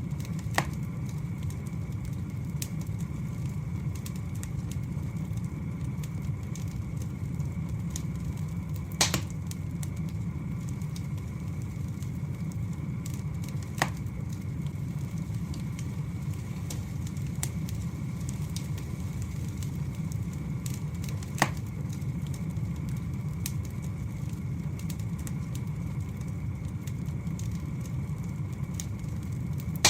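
Wood fire burning with a steady low rumble and scattered faint crackles, broken by a few sharp louder pops of the burning logs.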